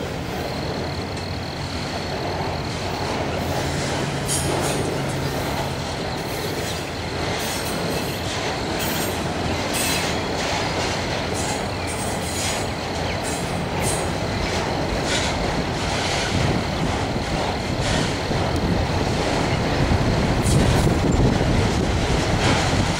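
Autorack cars of a freight train rolling past slowly, making a steady rumble of steel wheels on rail. A thin high wheel squeal runs through it, with many brief sharp clicks and screeches.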